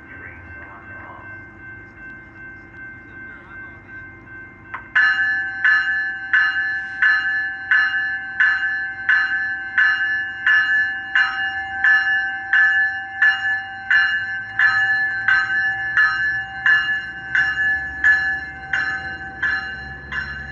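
Railroad grade-crossing bell, which starts ringing suddenly about five seconds in and keeps striking evenly, about one and a half strokes a second, as a train approaches.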